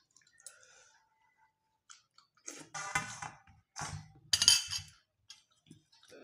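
Eating sounds of a person eating rice and curry by hand: chewing, with a few loud bursts of mouth noise in the second half after a nearly quiet start.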